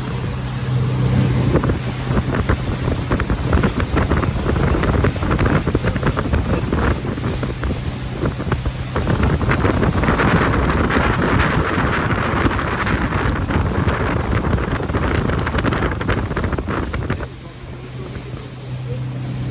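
Motorboat engine running under way, with wind buffeting the microphone and water rushing past the hull. The rush of wind and water swells in the middle and falls away a couple of seconds before the end, leaving the steady engine hum.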